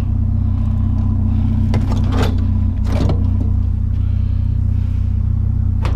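Truck engine idling steadily, with a few sharp knocks and clanks of scrap items being shifted in the truck bed, the loudest a little after two seconds in and near three seconds.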